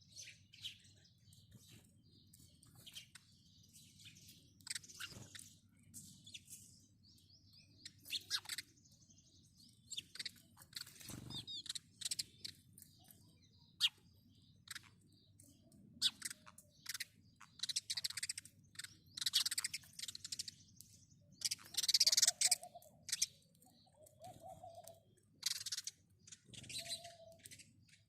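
House sparrows chirping: many short, high chirps in irregular runs, sometimes overlapping as several birds call at once, growing busiest and loudest past the middle.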